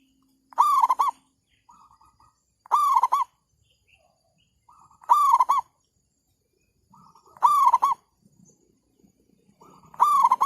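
Zebra dove (merbuk) cooing: five calls about two seconds apart, each a soft stuttering rattle running into a louder, clear coo.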